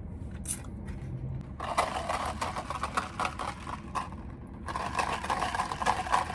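Handling noise: a dense crackling rattle of small strokes, starting about a second and a half in, breaking off briefly and resuming.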